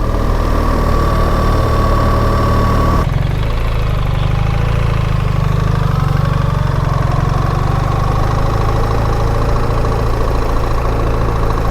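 BMW R 1300 GS's boxer-twin engine running steadily at low revs, its note changing abruptly about three seconds in.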